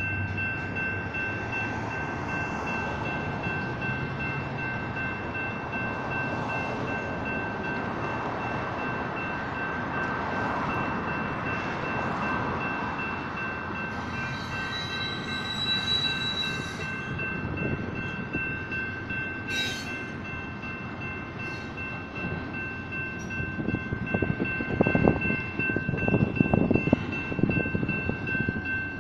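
Double-stack intermodal freight train rolling through a grade crossing, its cars rumbling and clattering over the rails, while the crossing's electronic warning bells ring steadily. Louder irregular clanks and knocks from the passing cars come in near the end.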